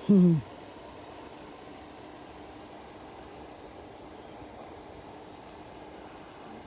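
A short falling vocal sound from a person right at the start, then insects chirping steadily, about two or three high chirps a second, over a faint low hum of honeybees working the flowers.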